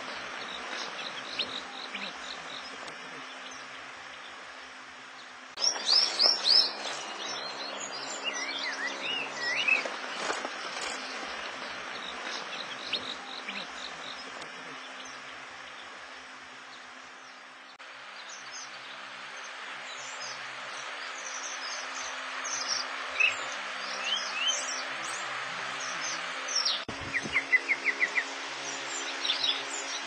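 Several birds chirping and singing over a steady background hiss. The background changes abruptly about 6, 18 and 27 seconds in, and near the end comes a quick run of about eight loud, even notes.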